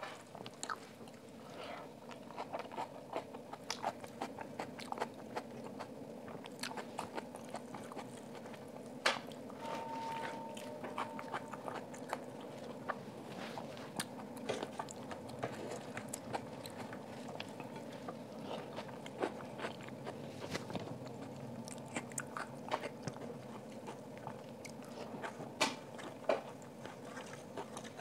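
Close-up eating sounds: wet chewing and lip smacks with many short clicks as rice and chicken curry are eaten by hand, with fingers gathering rice on a steel plate.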